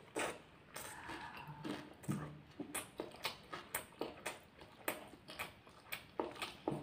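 Close-up chewing of a mouthful of egg balado with chili peppers: soft, irregular mouth clicks and crunches, one to three a second.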